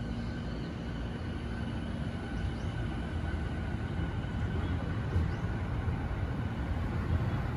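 JR 209 series electric commuter train pulling out of the station, a steady low running rumble on the rails that grows a little louder in the second half.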